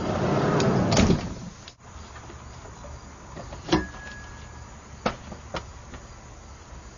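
A 2008–2010 Chrysler/Dodge minivan's sliding side door rolls along its track for about a second and shuts with a thump. A few separate light clicks and knocks follow, along with a faint short tone.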